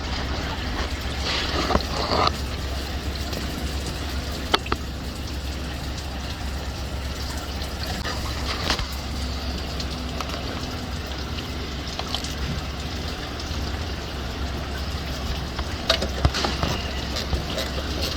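Steady low hum with a few sharp clicks and knocks of tools on metal scattered through it, and a faint sound of running liquid.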